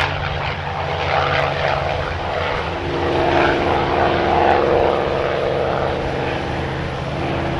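Merlin V12 piston engine of a P-51 Mustang running with a steady propeller drone, a higher engine tone swelling from about three seconds in.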